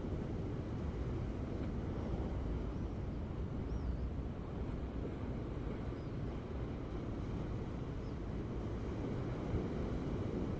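Ocean waves washing in a steady low rumble, with wind buffeting the microphone. A few faint high chirps come through about four, six and eight seconds in.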